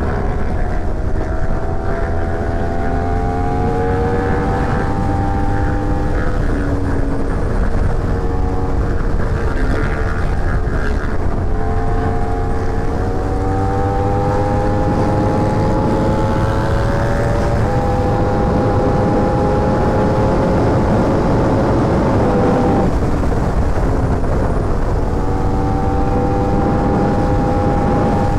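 Sport motorcycle engine under way in heavy wind rush. Its pitch climbs slowly and drops back at upshifts a few times, then holds steady for a stretch.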